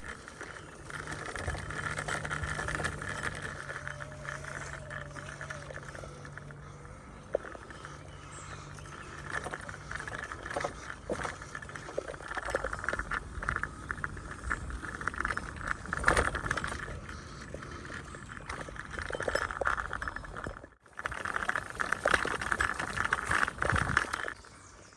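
Bicycle ride on a forest path: steady tyre and wind noise with the bike's small rattles and clicks throughout, and a brief break about three-quarters of the way through.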